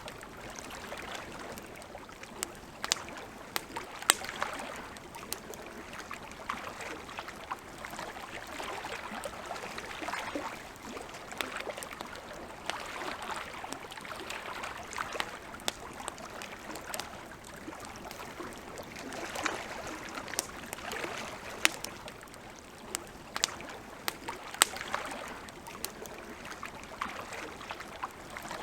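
Campfire crackling, with irregular sharp pops standing out over a steady, gently swelling hiss.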